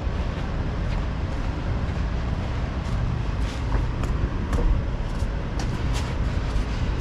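Steady low rumble of an idling diesel semi-truck, with a few faint light ticks about halfway through.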